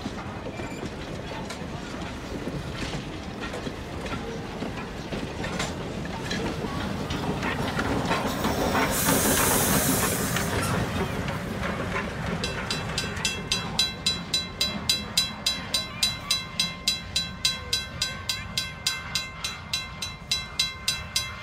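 Wooden passenger coaches rolling over a level crossing with the steady rumble and clicks of wheels on rail joints, then the Thomas the Tank Engine steam locomotive passing with a loud hiss of steam about nine seconds in. After it passes, the crossing signal's bell rings steadily, about two strokes a second.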